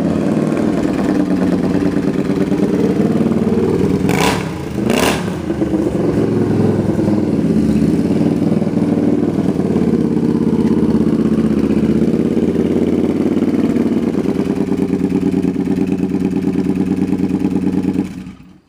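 1997 Suzuki Marauder VZ800's V-twin running steadily through Hard Krome Kicker drag pipes with the baffles in. Two sharp cracks a little under a second apart about four seconds in, and the sound stops abruptly near the end.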